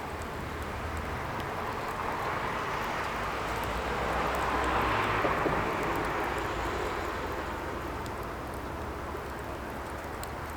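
Distant engine noise passing by: a broad rushing sound with a low rumble that slowly swells to a peak about halfway through and fades away again, over scattered faint ticks.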